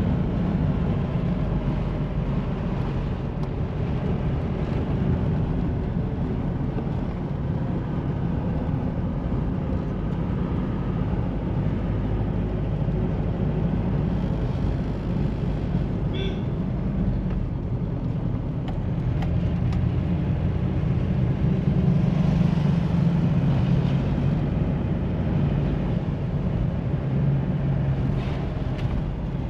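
2013 Mahindra Bolero SUV driving: its diesel engine and road noise make a steady low drone that grows a little louder about two-thirds of the way through.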